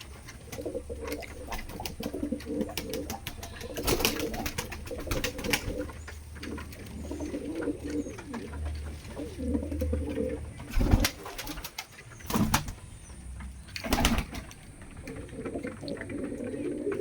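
Fantail pigeons cooing in repeated low, pulsing phrases, broken by several sharp knocks, the loudest ones in the second half.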